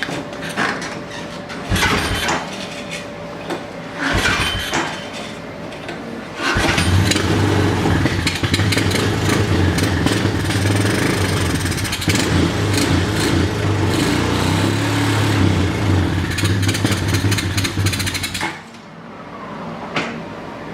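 Honda ATV engine being started: two short bursts of cranking or firing, then about six seconds in it catches and runs steadily for some twelve seconds before dying near the end. It is choked and flooded and won't stay running, which the owner thinks could be clogged fuel lines.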